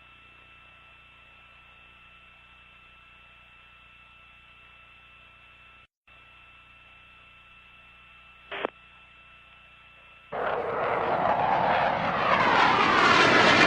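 Faint radio-channel hiss with a steady tone for about ten seconds, broken once by a short blip. Then a loud jet aircraft flyover noise starts suddenly, with a sweeping rush as it passes.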